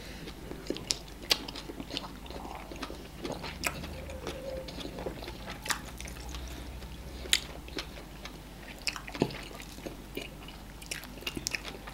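Close-miked eating sounds: chewing on meat in ogbono soup, broken by irregular sharp smacks and clicks of the mouth and the fingers being sucked.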